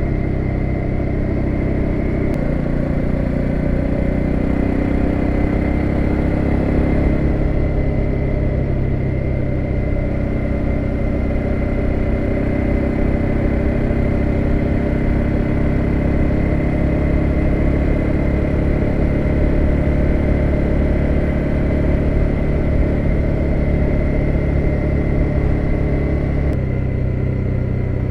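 BMW F650GS motorcycle engine running steadily, its pitch shifting about two seconds in and again near the end.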